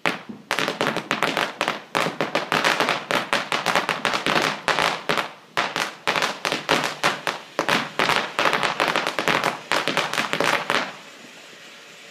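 Fireworks going off in a rapid series of sharp bangs and crackles, several a second, which stops abruptly near the end.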